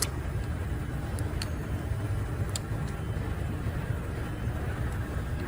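A steady low background rumble with a few faint light clicks.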